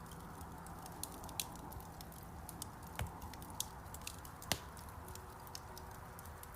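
Wood fire crackling in a fireplace: a steady stream of small pops and ticks over a low rumble, with a few louder snaps, the loudest about three and four and a half seconds in.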